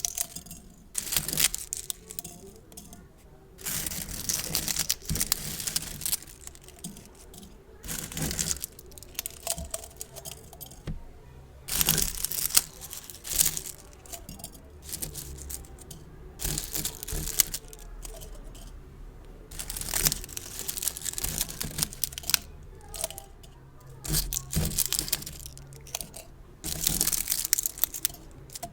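Gift bows being handled and scrunched close to the microphone: repeated bursts of crinkling and crackling, each a second or two long, with short quieter pauses between.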